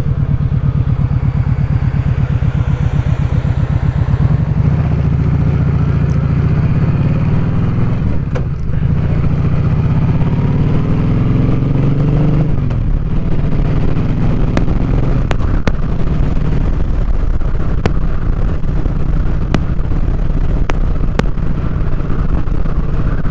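Kawasaki Vulcan Vaquero's V-twin engine running under way through an exhaust with its baffles taken out, a steady low pulsing note. The engine note dips briefly, then rises for a couple of seconds and falls back about halfway through, like a gear change. Sharp faint clicks crackle in the second half.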